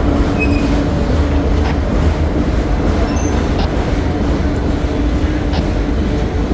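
Freight cars of a slow-moving manifest train rolling past, a steady rumble with a sharp click about every two seconds and a few brief wheel squeaks.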